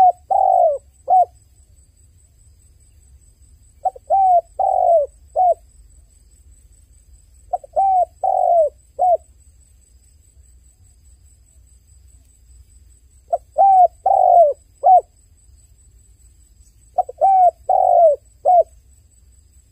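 Dove cooing: five phrases of about four short, low coos each, repeated every three to four seconds.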